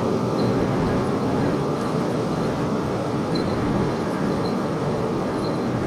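Steady, even noise from a Tohoku Shinkansen train, with faint high ticks now and then.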